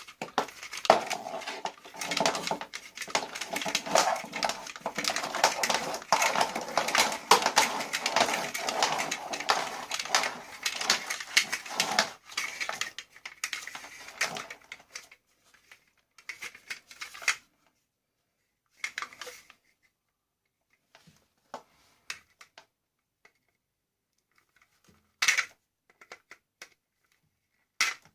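Dense clattering and rattling of metal and plastic vacuum cleaner parts being worked by hand, lasting about fifteen seconds. After that come scattered clicks and knocks, with one sharper knock near the end.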